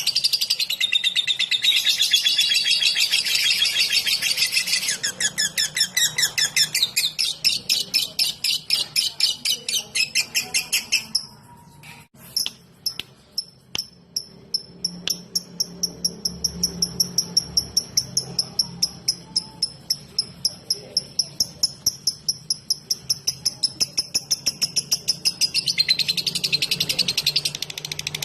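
Lovebird singing its fast ticking 'ngetik' song: an even run of sharp, high chirps, several a second. It breaks off about eleven seconds in, carries on softer, then grows loud again near the end.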